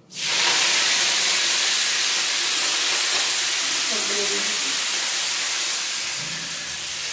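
Fresh fenugreek (methi) leaves dropped into hot oil in a steel kadai: a loud sizzle that starts suddenly and runs steadily, easing a little near the end.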